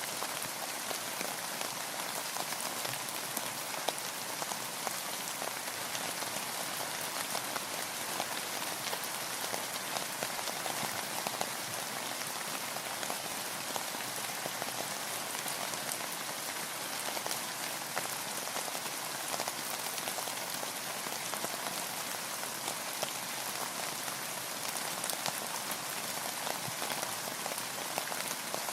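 Steady rain: an even hiss with many small drop ticks running through it, unchanging throughout.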